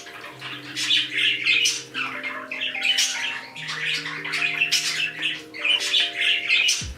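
Pet parrots chattering and squawking in a rapid, near-continuous stream, over background music of soft held chords.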